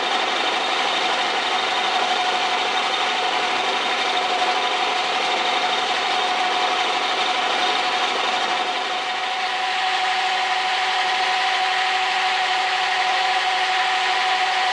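Metal lathe running with a cutter spinning in the chuck, milling a metal workpiece through a milling attachment. A steady whine sits over continuous cutting noise with no break.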